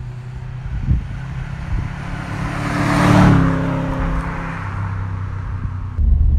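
2005 Subaru Impreza WRX STI's flat-four boxer engine as the car drives past: the sound builds to its loudest about three seconds in and fades as it drives away. Near the end it cuts suddenly to the louder, steady engine drone heard inside the cabin.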